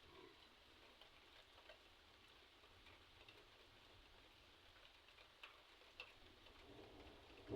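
Near silence: a faint low hiss with scattered faint ticks.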